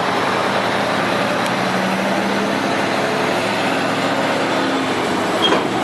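Steady vehicle noise with a motor hum held for a few seconds, then a short sharp knock near the end.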